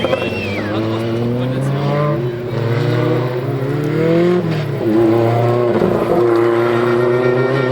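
Historic rally car engine revving hard, its pitch climbing, dropping back briefly about four and a half seconds in and again near six seconds, then holding high.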